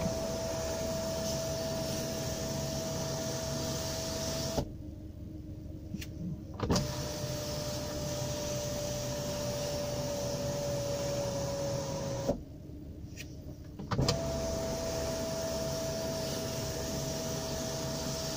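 Electric sunroof shade motor of a Kia Optima running in three stretches with a steady whine: the second run's pitch sags slightly, and the third starts about 14 seconds in. No clicking comes through, which the owner takes to mean the shade is fine.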